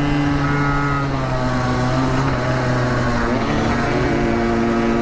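Two-stroke motorcycle engine running under way, a steady engine note that shifts in pitch about three seconds in.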